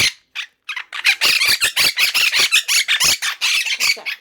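Pet parrot squawking: a couple of short calls, then from about a second in a rapid run of short, high squawks, roughly five a second.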